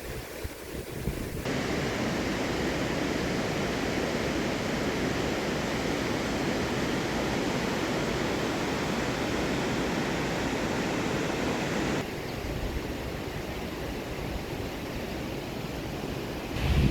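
Steady rush of heavy water, like a swollen torrent or downpour, changing abruptly about a second and a half in and again about twelve seconds in.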